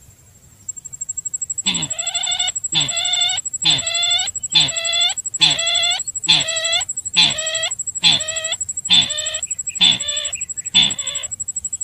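Bird-caller recording of sintar calls played back as a lure: a regular series of short clucking calls, about one a second, each falling in pitch, growing weaker near the end. A steady high-pitched whine runs underneath.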